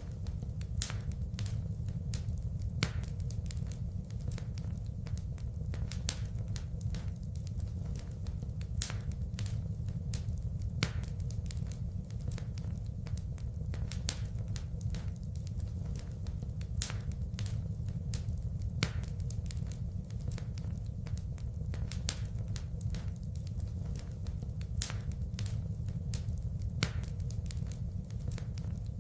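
Wood fire in a fireplace, crackling and popping over a steady low rumble of the flames. The louder pops come back in the same pattern about every eight seconds, as in a looped recording.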